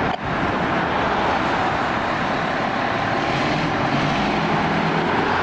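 Steady road noise of a moving vehicle: tyre and engine noise at an even level, with no siren.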